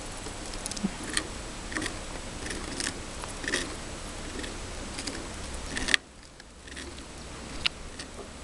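Scattered light, irregular clicks and ticks over a steady background hiss. A sharp click about six seconds in, then the background drops quieter.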